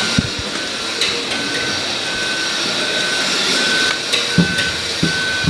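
Reversing beeper of a radio-controlled model truck's sound module, beeping steadily at an even pace: the truck is backing up. A few sharp knocks sound near the start and again about four and five seconds in.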